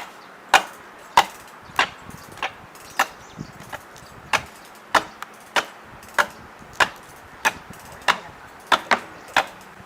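A tool striking wood in a steady rhythm, about one and a half blows a second, each a sharp crack, during tree-felling work.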